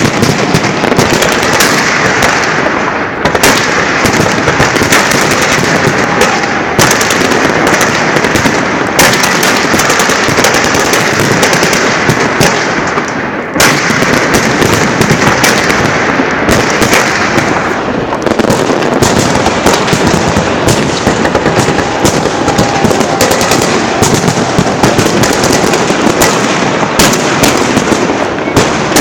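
Fireworks salute launchers firing a dense, continuous barrage, with many bangs and pops running together without a break.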